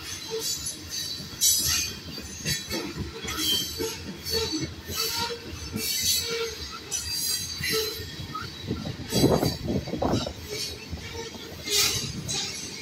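Covered hopper cars of a freight grain train rolling past at close range, wheels rumbling and clattering on the rail with repeated short bursts of high-pitched wheel squeal, and a louder rattle about nine seconds in.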